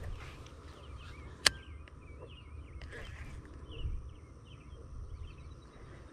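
A songbird warbling in a run of short, wavering phrases over a low rumble, with one sharp click about a second and a half in.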